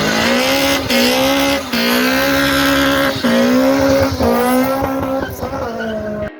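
Car engine revved hard and held at high revs in several long pulls, its pitch wavering slightly, with short lifts between pulls.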